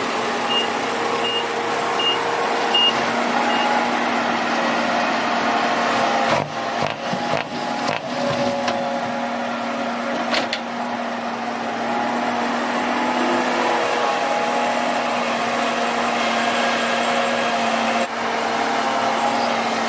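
Heavy earthmoving machinery's engine running steadily. A reversing alarm beeps about once every 0.7 seconds and stops a few seconds in.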